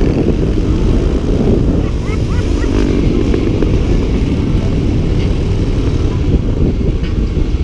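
Dirt bike running steadily, a loud low rumble with no clear rise or fall in pitch.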